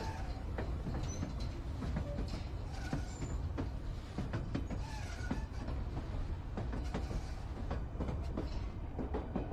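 White Pass and Yukon Route passenger train running on the rails, heard from aboard: a steady low rumble with frequent clicking and rattling from the wheels and track, and a few brief faint wheel squeals.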